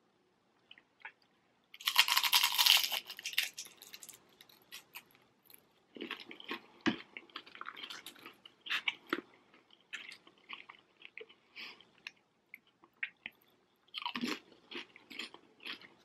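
A bite into a crispy deep-fried chicken wonton, with a loud crunch about two seconds in. Chewing with many short crackles follows, and there is another burst of crackling near the end.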